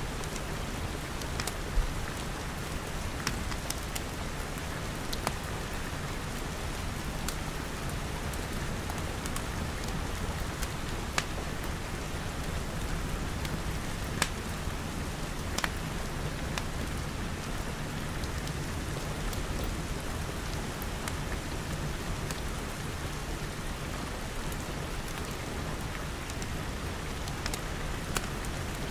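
Steady rain pattering, mixed with a crackling wood fire that gives scattered sharp pops at irregular intervals.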